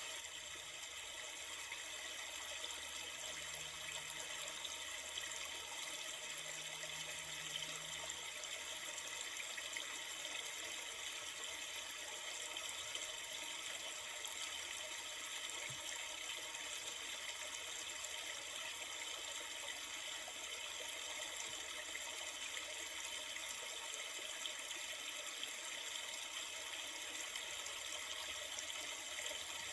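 Steady rushing of a flowing river, an even, unbroken water noise.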